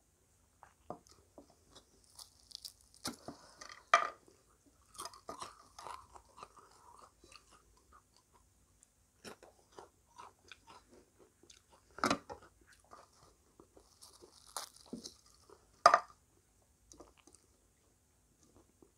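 Close-up chewing and crunching of crisp fried samosa pastry, in scattered crackles with a few louder, sharper crunches.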